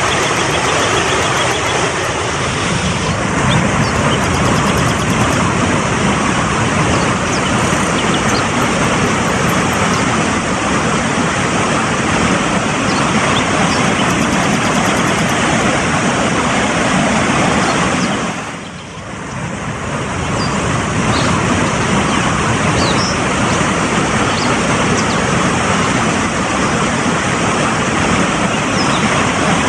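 Fast-flowing mountain stream rushing in a steady, even torrent, with a brief dip in loudness about two-thirds of the way through.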